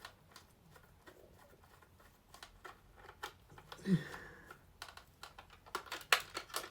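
Scattered small clicks and taps of hard plastic parts being handled and worked on a Buzz Lightyear action figure, coming thicker near the end. About four seconds in, a brief low hum of a voice is the loudest sound.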